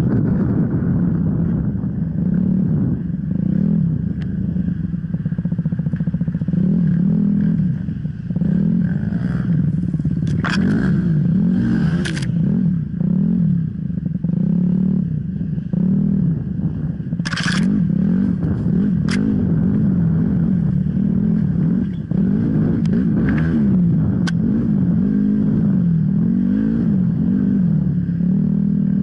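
Off-road enduro motorcycle engine revving up and down as it is ridden, the pitch rising and falling every second or two. A few short scraping or clattering noises break in partway through.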